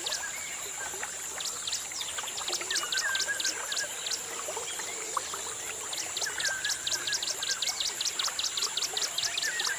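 Birdsong: fast trills of short downward-sweeping chirps in two long bursts, with another bird's lower warbling whistles, over a steady high-pitched hum.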